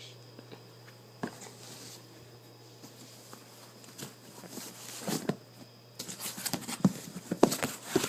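Scattered soft taps and rustles of bedding and plush toys being handled, sparse at first and thickening into a busy cluster in the last three seconds.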